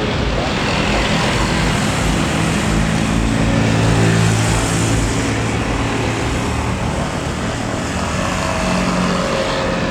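Jet airliner's engines passing low near the runway, a loud, steady noise that swells a little about four seconds in and then eases slightly.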